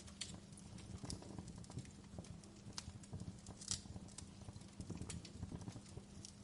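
Wood fire burning in a fireplace, crackling with irregular sharp pops over a steady low hum, one pop louder about halfway through.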